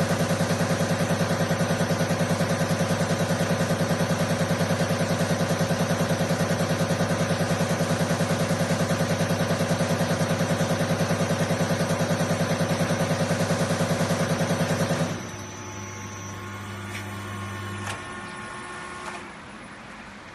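CR708 diesel injector test bench running, a loud machine sound with a fast, even pulse. It shuts down about 15 seconds in, leaving a quieter hum that drops away a few seconds later.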